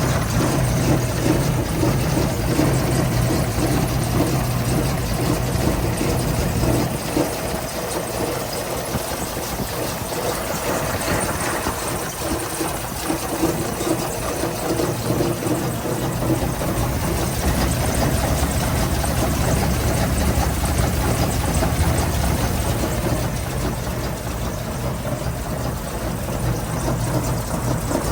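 Toyota Land Cruiser engine idling just after a cold start. Its low hum weakens about seven seconds in and grows stronger again later.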